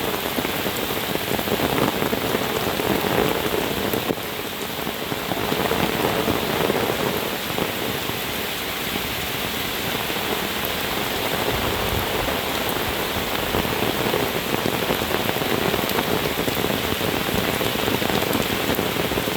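Heavy rain pouring down steadily, a dense even hiss of rain on the ground and surfaces.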